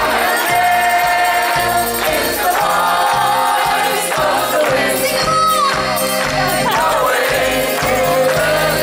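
Live band music with several voices singing a held melody together over the instruments, steady and loud.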